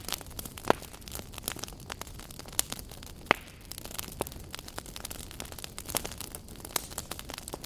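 Wood fire burning in a fireplace, crackling with irregular sharp pops and snaps over a low steady rumble. The loudest pops come about three quarters of a second in and again just past three seconds.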